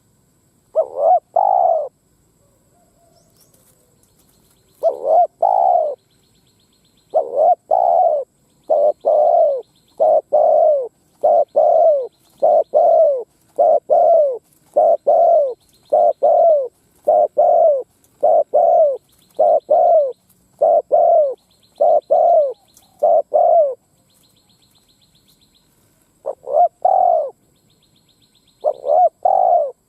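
Spotted dove (Streptopelia chinensis) cooing its song, each phrase two or three coos. The phrases repeat about once a second in a long run, with two pauses, and resume near the end.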